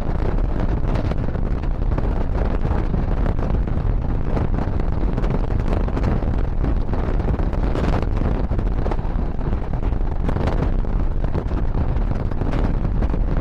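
Steady loud rumble of a moving passenger train, with wind buffeting the microphone.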